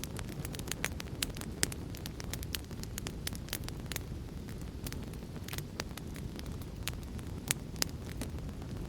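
Fire crackling: a steady low rumble of burning with frequent irregular sharp pops and snaps, several a second, a few louder pops standing out.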